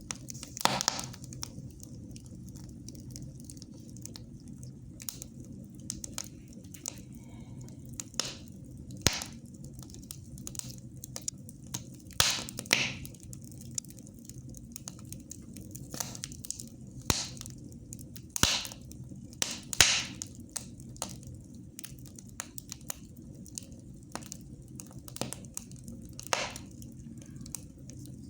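Wood fire burning in a fireplace, crackling with irregular snaps and pops, a few of them louder, over a steady low rumble.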